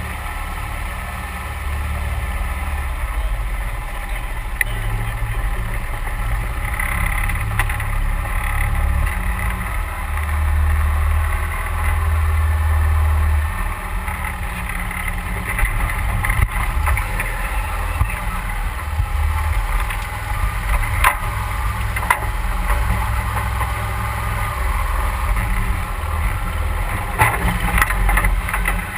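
A 31 hp Mud Buddy Hyperdrive surface-drive mud motor runs steadily, its drone rising and easing with the throttle. In the second half come several sharp knocks as the boat bangs off trees.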